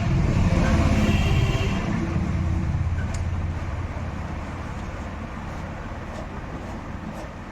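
A motor vehicle's engine rumble, loudest in the first two seconds and then slowly fading, as of a vehicle passing by.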